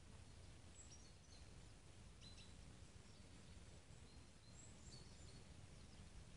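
Faint outdoor quiet: a low steady rumble with a few short, high bird chirps in three small groups.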